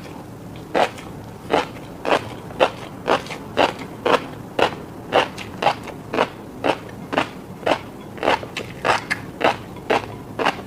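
Close-miked chewing of fish roe: the eggs pop and crackle between the teeth in crisp, sharp clicks at an uneven pace of about two a second.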